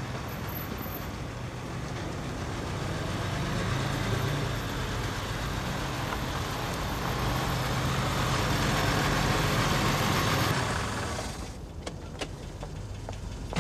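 Car engine running, growing louder toward the middle and then dropping away about eleven seconds in. After it comes a quieter stretch with a few light clicks.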